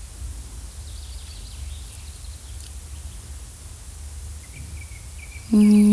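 Forest ambience: birds chirping faintly over a low steady rumble. About five and a half seconds in, a loud steady held tone with many overtones begins.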